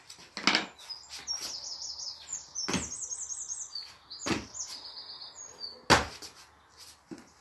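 A songbird singing runs of quick high chirps and trills, broken by four sharp thumps of sneakers landing on a hard tiled floor after jumps; the last thump is the loudest.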